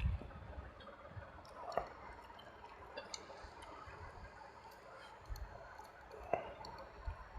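Close-miked eating sounds of rice with vegetable curries and dal: wet chewing and mouth smacks with scattered small clicks, two sharper smacks about two seconds in and near the end.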